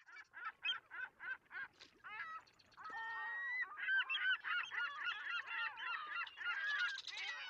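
A flock of birds calling: first one bird's calls evenly repeated about three times a second, then many overlapping calls from about three seconds in.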